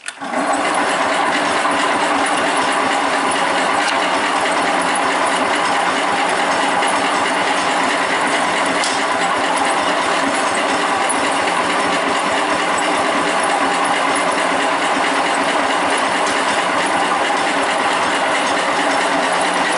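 Sears Suburban 10 garden tractor engine being cranked on the starter without catching, in one long, steady crank. It will not fire because the fuel shut-off was left closed.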